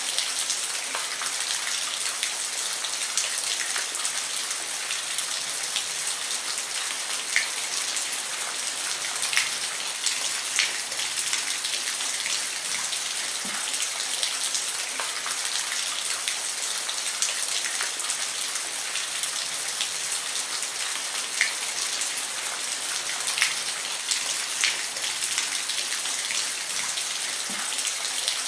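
Steady rain falling on a roof: an even hiss with scattered sharper drop taps.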